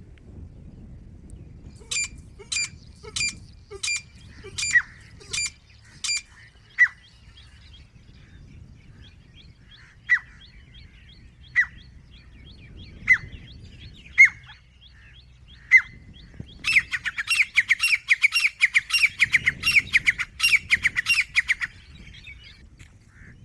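Grey francolin (desi teetar) calling: a series of sharp repeated notes, then single calls a second or more apart, then a fast, loud run of rapid notes near the end.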